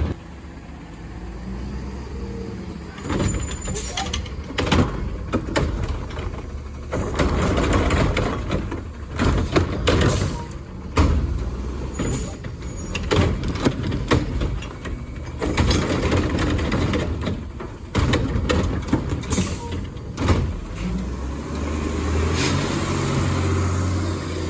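Diesel garbage truck working its collection route: the engine runs and revs beneath repeated air-brake hisses and a string of sharp knocks and bangs.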